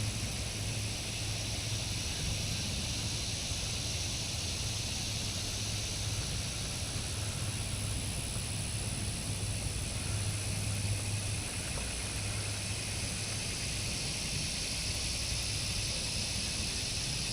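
Steady outdoor background noise: an even high hiss with a low hum underneath that comes and goes, and no distinct sounds.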